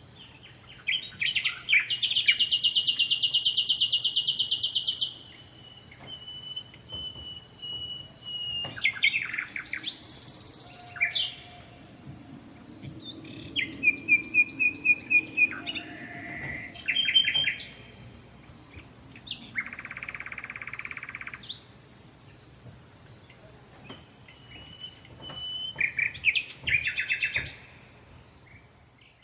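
Birds singing and calling in turn: loud fast trills, runs of quick repeated notes and short whistled phrases, with brief pauses between songs.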